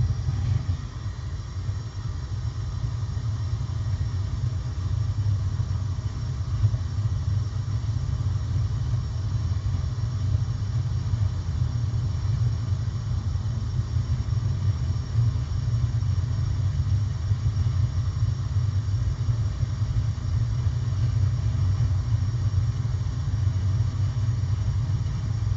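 Natural gas water heater's main burner lit and burning with a steady low rumble, the sign that the pilot relight worked.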